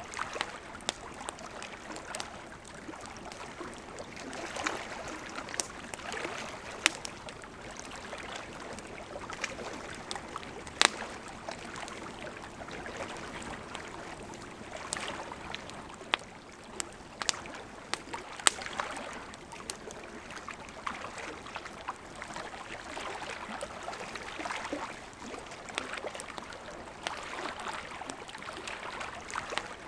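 Wood fire burning with a steady hiss and scattered sharp pops and crackles of burning wood, a few louder snaps standing out.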